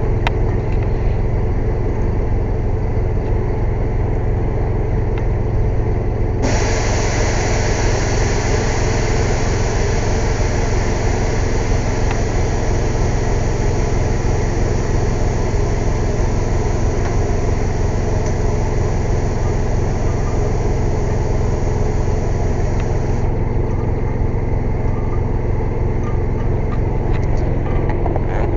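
Air compressor engine running steadily. From about a quarter of the way in until about four-fifths through, a loud, steady hiss of compressed air is added, and it cuts off suddenly.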